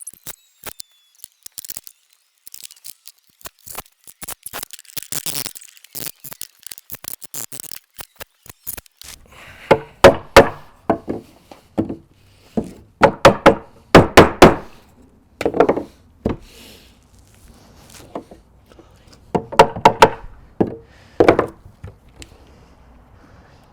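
Wooden coop wall framing being struck in loud clusters of sharp, ringing knocks, a few blows at a time, with faint scattered clicks before them.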